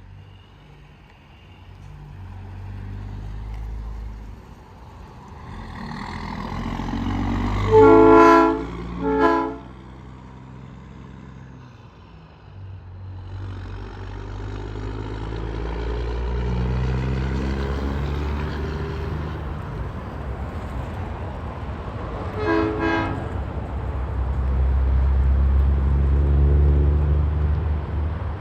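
Tractor-trailers passing on the interstate, their engine and tyre drone swelling and fading. A truck's air horn sounds about eight seconds in, one longer blast then a short one, and again briefly twice around twenty-two seconds.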